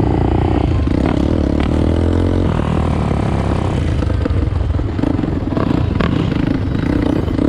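Dirt bike engine running nearby, its pitch rising and falling briefly about two seconds in as the throttle is worked, with a few sharp clicks.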